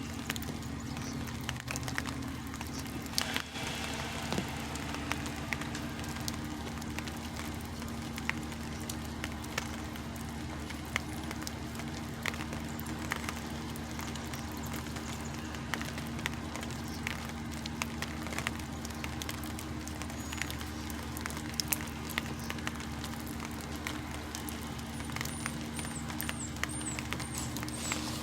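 Diesel engine of a semi-truck idling steadily, with scattered light ticks over the engine note.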